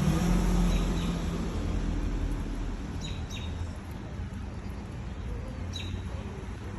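A small bird calling a few short, high chirps: two close together about three seconds in and another near the end. Under them is a steady low rumble, loudest at the start.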